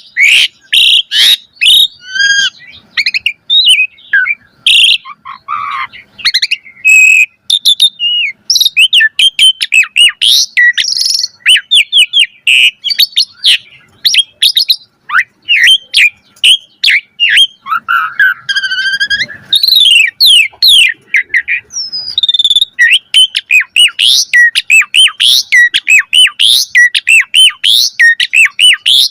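Jalak suren (Javan pied starling) singing a long, fast, varied song of chirps, whistled glides and harsh rasping notes, packed with mimicked phrases, with hardly a break.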